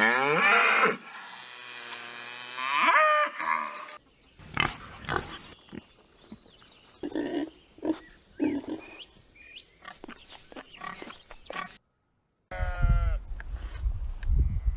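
A cow mooing in long, loud calls. Then a pig grunting in short, quieter grunts with clicks. After a brief gap of silence, a sheep starts bleating near the end.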